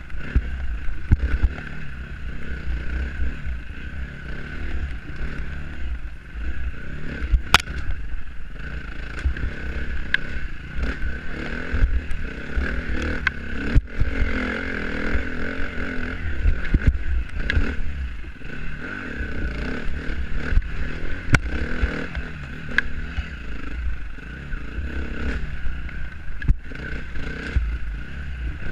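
Dirt bike engine running steadily while being ridden, under a heavy low rumble, with scattered sharp knocks and clatter throughout.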